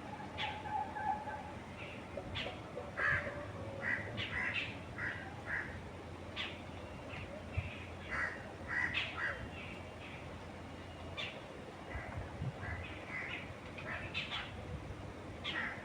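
Birds calling, with many short, harsh calls and chirps coming every second or so, over a steady low background rush of wind.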